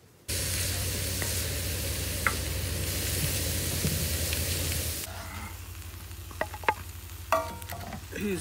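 Shredded chicken and diced bell peppers sizzling in a cast-iron skillet as they are stirred with a wooden spatula. The sizzle starts suddenly just after the start and is loudest for about five seconds, then drops lower, with a few sharp clicks of the spatula on the pan near the end.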